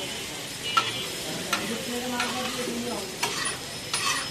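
Food sizzling on a hot street-stall griddle, with a metal spatula knocking and scraping on the pan about five times.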